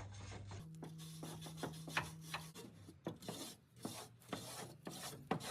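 Irregular hand scraping and rubbing strokes on the rusty steel caravan chassis, a stroke every half second or so.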